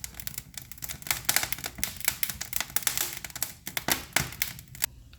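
Wood fire crackling and popping in a fireplace, with rapid irregular snaps. The kindling is damp bamboo, which pops as it burns.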